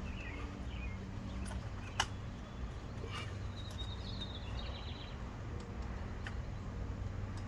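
A single sharp click and a few faint ticks as a stubborn ignition coil pack is worked loose on a HEMI V8, over a steady low hum, with faint bird chirps in the middle.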